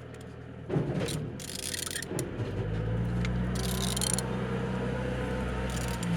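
Renault K9K 1.5 dCi diesel engine being turned over to show that it rotates freely. Short scrapes and clicks come first, then a steady low mechanical hum from about two and a half seconds in.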